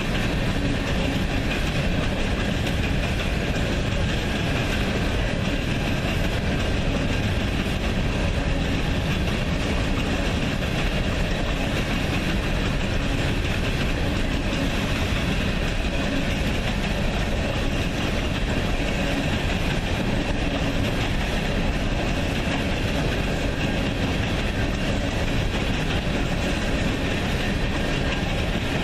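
Train rolling past, its wheels clattering steadily on the rails.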